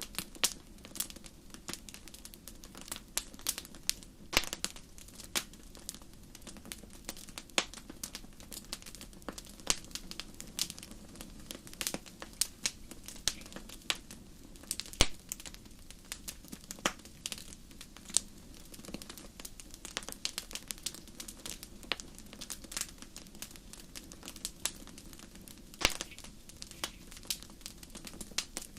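Wood fire burning, with irregular sharp crackles and pops over a steady low hiss of flame.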